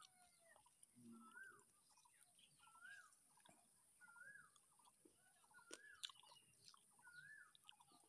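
Faint ambience: a bird calling a short rising-and-falling note about every one and a half seconds, over a steady high hiss, with a few faint clicks.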